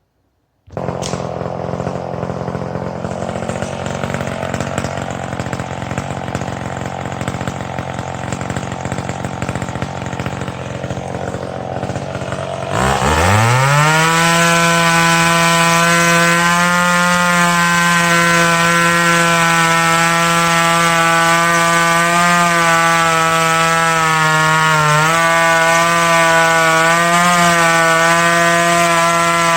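Two-stroke chainsaw idling, then revved up sharply about thirteen seconds in and held at full throttle, its pitch steady apart from a few slight dips.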